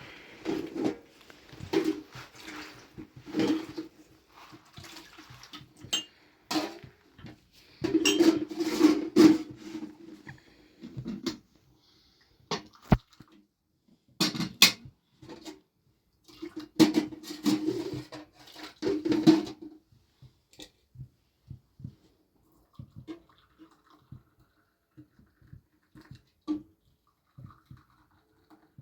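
Irregular clattering and rustling of hands at work, clusters of knocks and scrapes, thinning to a few faint clicks after about twenty seconds.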